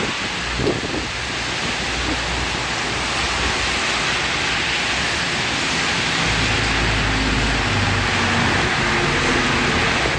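Typhoon rain and wind: a loud, steady rush of heavy rain, with low gusty rumbling about half a second in and again past the middle.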